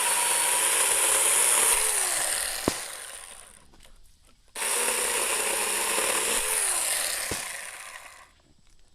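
Battery-powered 24-volt mini chainsaw with a 4-inch bar, running in two bursts. Each burst runs steady and then winds down after the trigger is released, with a sharp snap near its end.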